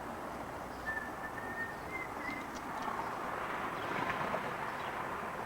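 Steady outdoor background noise with a few short high chirps from birds, about one to two and a half seconds in.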